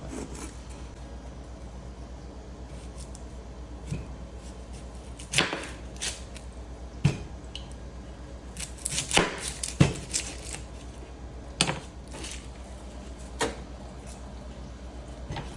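Kitchen knife chopping vegetables, irregular single strokes with a quicker run of chops in the middle.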